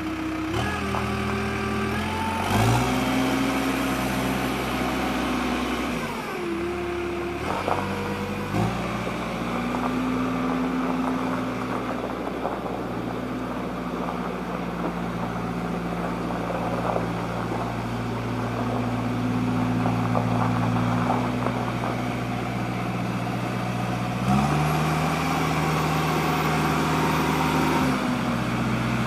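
Diesel engine of a New Holland B95B backhoe loader running, its speed stepping up and back down several times.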